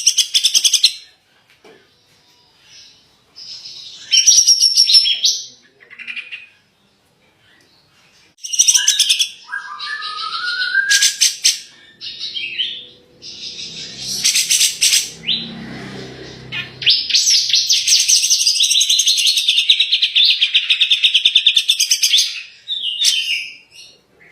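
Songbird singing in loud, separate bursts of high chirps and rapid trills, with a rising whistled note about ten seconds in and a long fast trill near the end.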